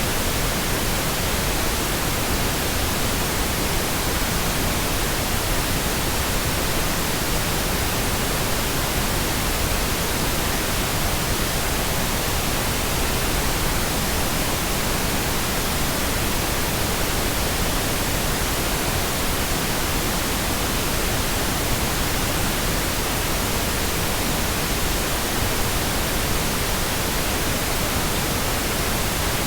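Steady pink noise: an even, unchanging hiss spread across the whole range, a test signal used for breaking in headphones.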